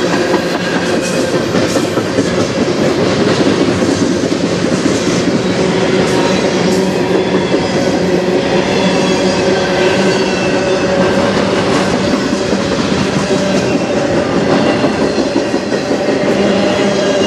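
Loud, steady rumble of a freight train's steel wheels rolling on the rails as tank cars, a covered hopper and autorack cars pass close by. A steady whine sits over the rumble, with faint clicks of wheels over the rail joints.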